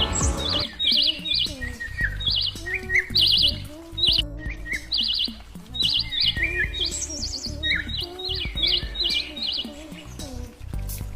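Small songbirds chirping in quick repeated bursts of high notes, over a soft lower background that may be music.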